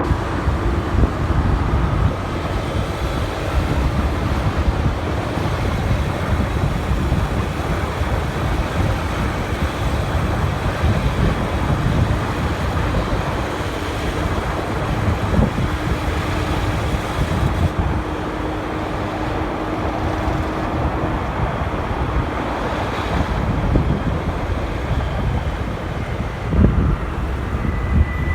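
Wind rushing over the microphone of a moving motorcycle, with road and traffic noise and a steady engine hum underneath that fades out about two-thirds of the way through.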